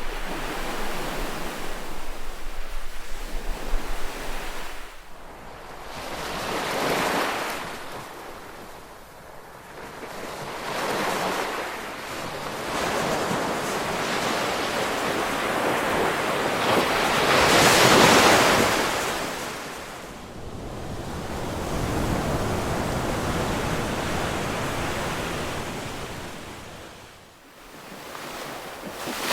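Ocean waves breaking and washing on the shore, a steady rush of surf that swells and ebbs, with the largest wave breaking about two-thirds of the way through.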